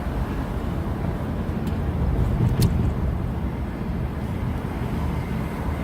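Car being driven, heard from inside: a steady low rumble of road and wind noise, with a short sharp click about two and a half seconds in.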